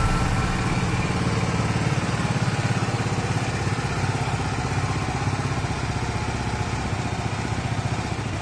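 BMW G 310 GS's single-cylinder engine idling steadily.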